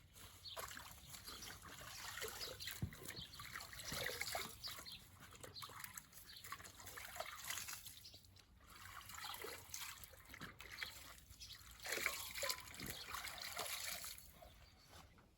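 Water trickling and splashing unevenly, with small patters and drips coming and going, a little louder around the middle and near the end.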